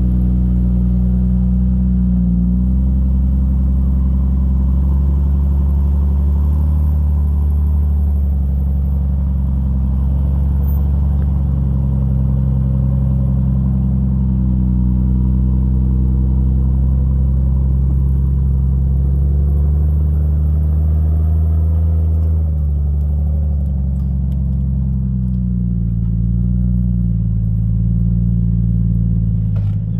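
Jeep Cherokee XJ's engine running at low revs under load while rock crawling, its pitch rising and falling gently.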